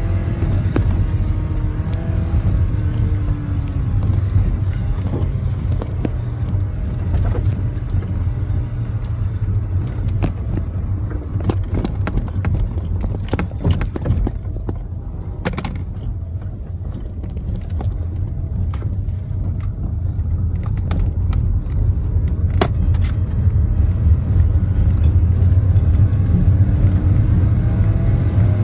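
A car being driven, heard from inside the cabin: a steady low engine and road rumble with scattered clicks and rattles.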